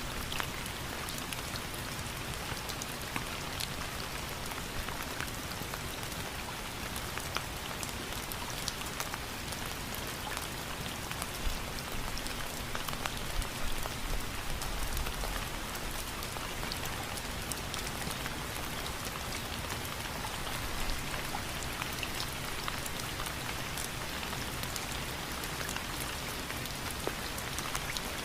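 Steady rain falling on a surface: a dense, even hiss with many individual drops ticking through it.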